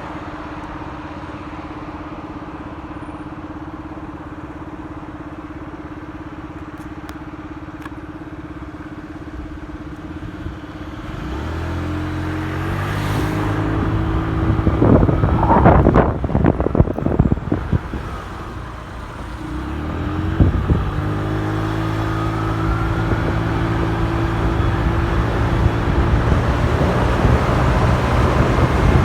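Motorcycle engine idling steadily, then pulling away with its pitch rising as it accelerates. It eases off briefly and picks up again to a steady run, with loud rushing noise on the microphone during the first hard acceleration.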